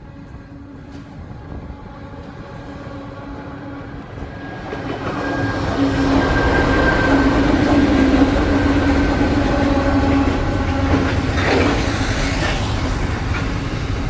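Two Aurizon diesel-electric freight locomotives approaching and passing close. Their engines' steady drone grows louder over the first six seconds and then holds, and wheel-on-rail clatter joins in near the end.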